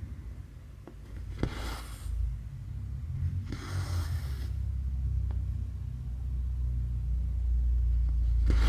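Embroidery thread drawn through cross stitch fabric in short rasping swishes, twice and again at the end, with a few faint ticks of the needle. Under it a low rumble grows steadily louder and is the loudest sound.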